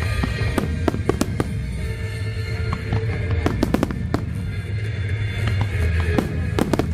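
Fireworks display: shells bursting in irregular sharp bangs and crackles, several close together, with music playing underneath.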